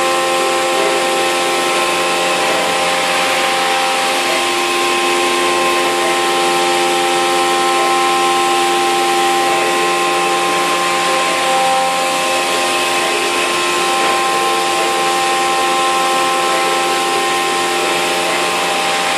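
CNC milling machine's 3-flute end mill at 8,000 rpm trochoidal-milling 6082 aluminium 20 mm deep: a steady machining whine made of several constant tones over a hiss of cutting noise.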